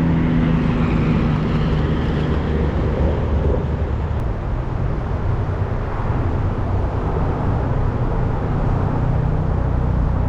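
Steady interstate highway traffic noise, cars and trucks passing on I-70, with a low hum through the first few seconds that fades.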